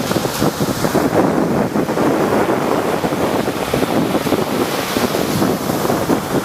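Rough sea surf washing and breaking in a continuous rush, with wind buffeting the microphone.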